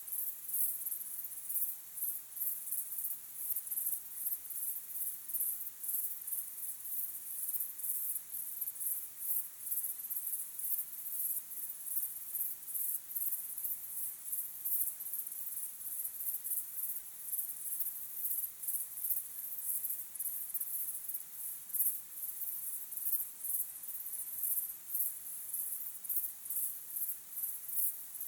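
Crickets chirping in a steady, high-pitched chorus of evenly repeating pulses.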